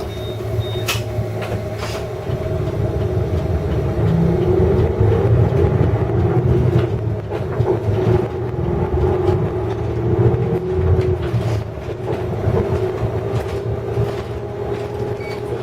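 Inside a Hino Blue Ribbon City Hybrid bus: the diesel-electric hybrid drivetrain runs with a steady low rumble and a held hum, getting louder from about four seconds in. Two sharp clicks come about a second in.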